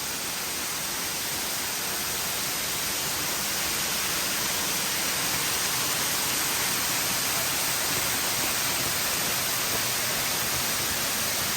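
Steady rushing of a waterfall close by, a dense even hiss that grows a little louder a few seconds in.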